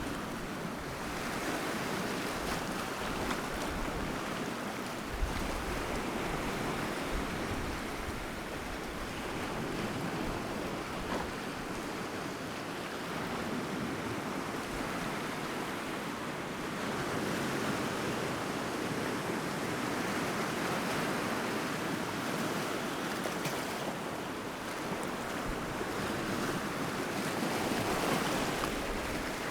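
Sea waves washing onto the shore in a continuous surf, swelling and easing slowly.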